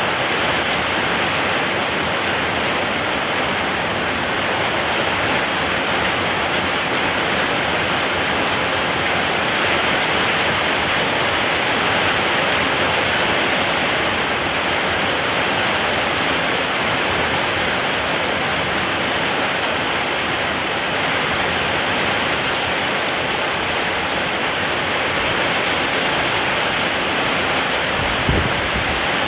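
Steady rain, an even unbroken hiss, with a short low thump near the end.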